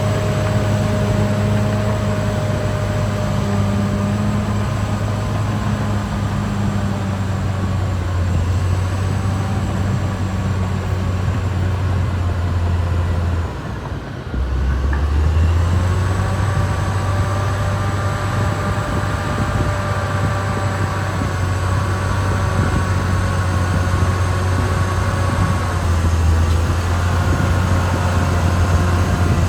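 Caterpillar D6R XL bulldozer's diesel engine running steadily under working load, with whining tones riding over the deep engine hum. About halfway through the engine note sags briefly, then picks back up.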